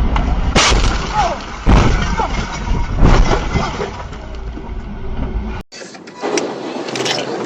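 Heavy vehicle road rumble with several sharp bangs and brief voices, cutting off abruptly about five and a half seconds in to a different, thinner-sounding clip of vehicle noise.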